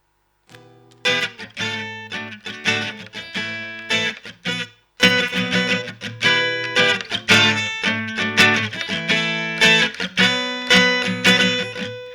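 Guitar played live as a fast run of picked notes. It starts about half a second in and turns suddenly louder and fuller about five seconds in.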